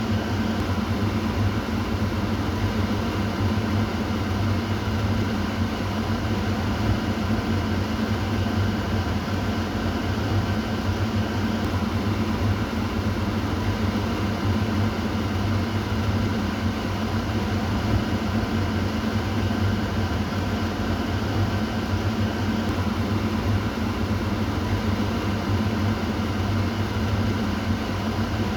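Kitchen exhaust fan running steadily: an even whoosh of air over a low motor hum.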